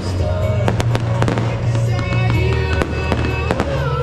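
Aerial fireworks shells bursting in a rapid series of sharp bangs, about three or four a second, over music with a steady bass and sustained melody.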